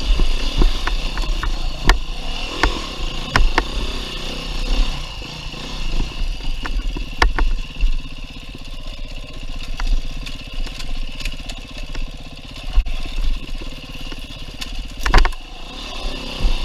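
2019 Beta 390 RR-S dirt bike's four-stroke single-cylinder engine, its revs rising and falling constantly, with many sharp knocks and clatter throughout and one loud knock about fifteen seconds in.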